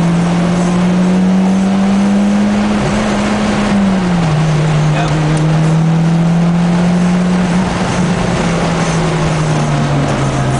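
Mitsubishi Lancer Evolution X's turbocharged 2.0-litre four-cylinder engine heard from inside the cabin under hard acceleration on a track. The pitch climbs, drops suddenly about four seconds in at an upshift, climbs again, then falls away as the car lifts off and brakes near the end, over steady road and wind noise.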